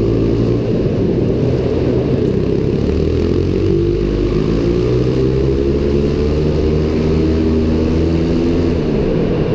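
Pit bike engine running hard through a lap, its note rising and falling with the throttle: a long climb in pitch through the middle, then a drop near the end as it slows.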